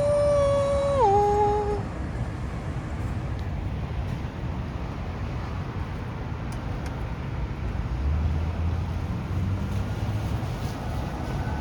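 Steady low rumble of city street traffic. Near the start a held pitched tone steps down to a lower note after about a second and stops shortly after; a lower engine hum swells and fades later on.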